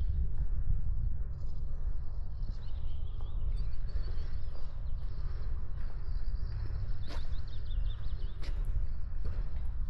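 Wind rumbling on the microphone, with small birds chirping and twittering throughout and a few sharp ticks about two-thirds of the way in.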